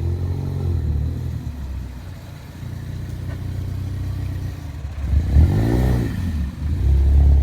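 Ford Focus ST engine running with a steady low rumble, revving up and back down about five seconds in as the car is pulled up.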